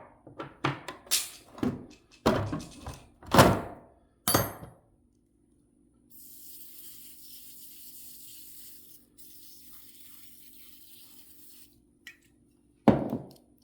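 Metal parts of a truck's rear wheel hub and bearings knocking and clanking, about ten sharp hits in the first five seconds and one more near the end. Between them come two spells of steady high hiss, each about three seconds long.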